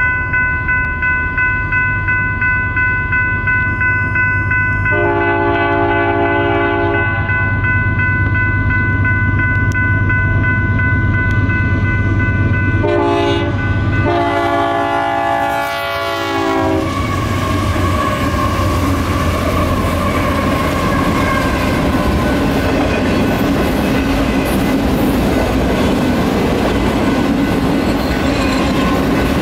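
Railroad crossing's electronic bell ringing steadily. A freight locomotive's air horn sounds a long blast about five seconds in, then a short and a long blast around thirteen seconds. From about seventeen seconds the freight train rolls through the crossing, its cars clacking over the rails.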